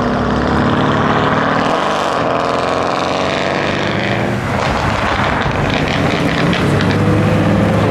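A car engine accelerating hard, its revs climbing and dropping back at gear changes about two and about four and a half seconds in, then climbing again.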